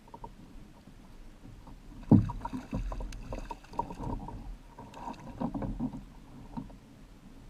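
Knocks and rattles on a Hobie Pro Angler fishing kayak: one loud thump about two seconds in, then irregular bumps and clatter for several seconds.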